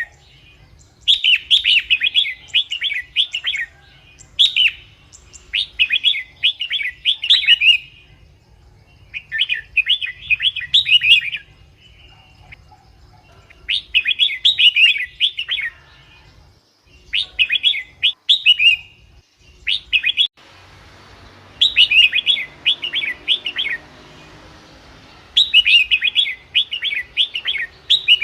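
Red-whiskered bulbul singing: short, bright warbling phrases repeated every couple of seconds with brief pauses between. This is the lively song used as a lure to call bulbuls and get them excited. A faint hiss runs under a few phrases about two-thirds of the way through.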